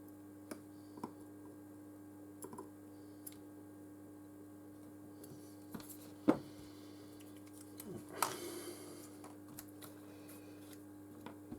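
Small clicks and taps from handling a phone's parts and tools on a workbench, with one sharper click about six seconds in and a short scrape just after eight seconds, over a steady low hum.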